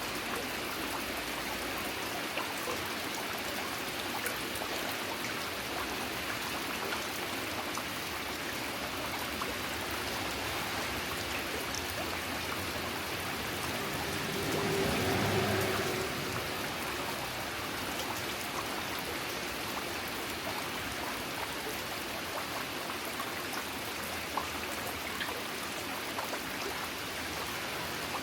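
Steady rain falling, with scattered ticks of single drops, and a brief louder swell of noise about halfway through.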